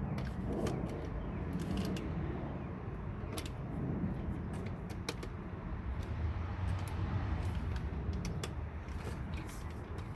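Scattered light metallic clicks and clinks of hand tools and bolts being handled during engine-bay reassembly, irregular rather than a steady ratchet, over a steady low rumble.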